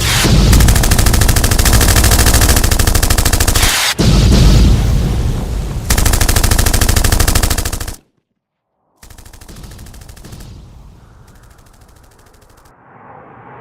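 Rapid machine-gun fire sound effect, loud and continuous for about eight seconds, then cut off. After a second of silence a fainter burst of rapid fire follows, and a rising whoosh starts near the end.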